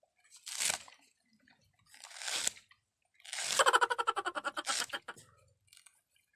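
Coconut husk fibres being torn away by teeth and hands: a few short ripping sounds, then a longer rasping tear with fast crackling pulses about three and a half seconds in.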